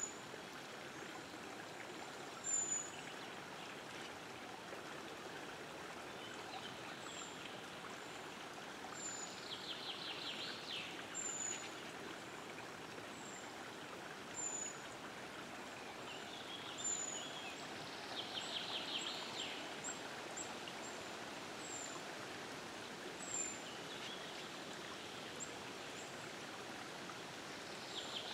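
Birds singing over a steady background hiss: a short high chirp repeated every second or two, and a louder trilled song phrase about every nine seconds.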